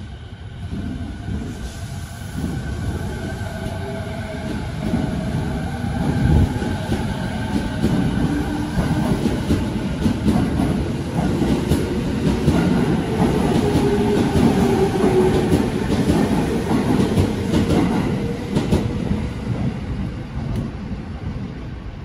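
JR East 209 series electric commuter train running along the platform and gathering speed, its traction motors whining in rising tones over the rumble and clatter of the wheels on the rails. The noise grows louder over the first few seconds and stays loud until it cuts off at the end.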